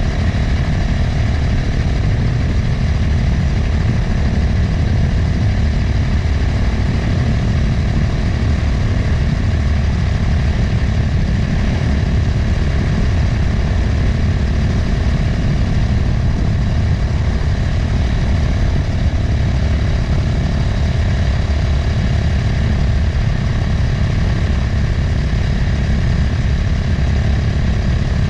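Motorcycle engine running steadily at an even cruising speed, with wind noise over the microphone.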